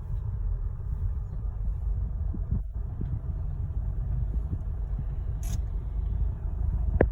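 Garbage truck engine running steadily with a low rumble. A short hiss comes about five and a half seconds in, and a sharp knock comes near the end.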